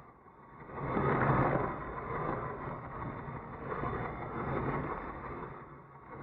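Car driving on a highway: engine and road noise that rises sharply about a second in, then swells and eases.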